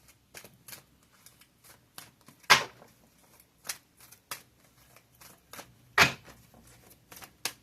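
Tarot cards being shuffled and handled: a string of short papery clicks and snaps, with two much louder slaps, a little after two seconds in and about six seconds in.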